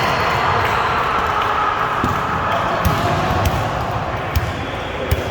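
A volleyball thumping several times as it is hit and bounces, echoing in a gym, over a steady hubbub of voices.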